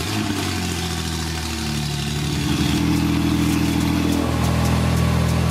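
Porsche 991.2 Carrera 4S's 3.0-litre twin-turbo flat-six, breathing through a Fi Exhaust full system with high-flow downpipes, idling steadily just after a cold start, with slight shifts in pitch as the idle settles.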